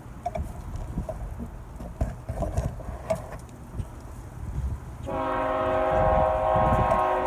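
Freight locomotive air horn sounding one steady multi-note chord for about two seconds, starting about five seconds in, over a low rumble with scattered knocks.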